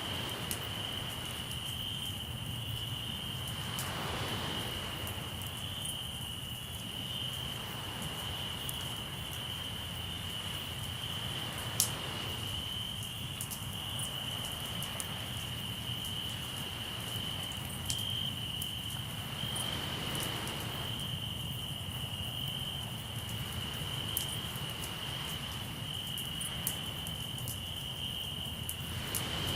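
Crickets chirping in one steady, unbroken high trill, with a wood campfire crackling and giving occasional sharp pops, one louder pop near the middle. Soft swells of surf wash in every several seconds underneath.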